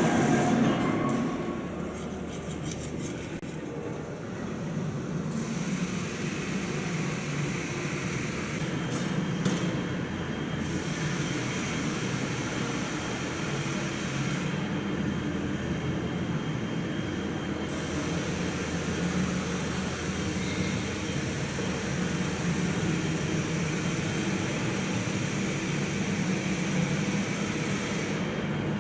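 Steady machinery noise with a low hum, broken by a few short metallic clicks.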